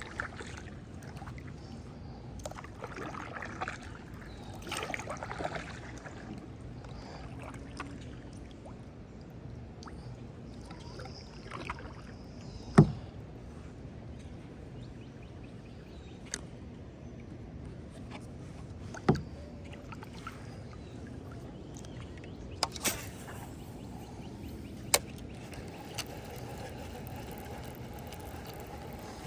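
Handling and water noise on a kayak: low sloshing and rustling, with a few short, sharp knocks, the loudest about halfway through.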